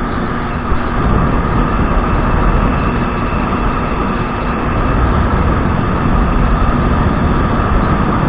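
Kawasaki 1200 jet ski engine running steadily under way, mixed with loud rushing noise.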